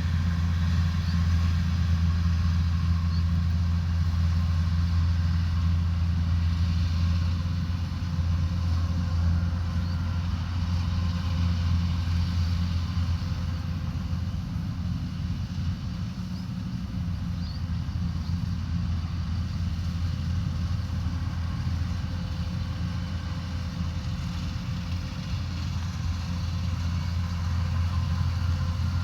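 Combine harvester engine running steadily with a deep, even drone, easing slightly in the middle and building back up near the end.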